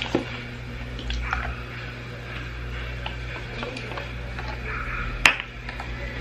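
Scattered light clicks and taps over a steady low hum, with one sharper click about five seconds in.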